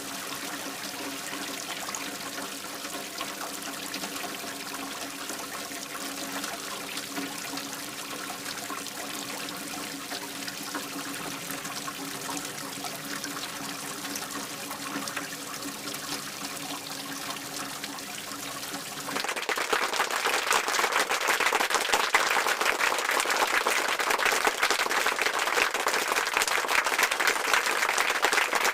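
Water trickling and running steadily, with a faint steady hum underneath. About nineteen seconds in it cuts abruptly to a crowd applauding, louder.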